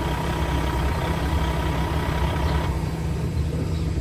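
Kenworth T660 truck's heavy diesel engine idling steadily. A faint high steady tone stops about two-thirds of the way in.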